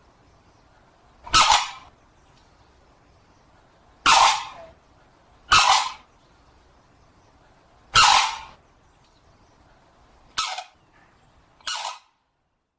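Common crane calling: six loud, harsh trumpeting calls spaced a second or more apart, the last two shorter and weaker.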